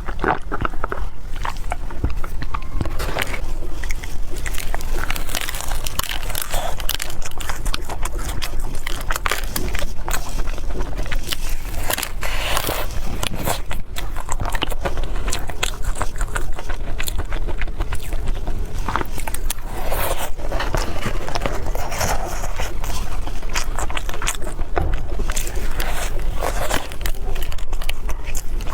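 A person biting and chewing Chinese pastries close to the microphone: a steady run of crackling, crunching and smacking mouth sounds.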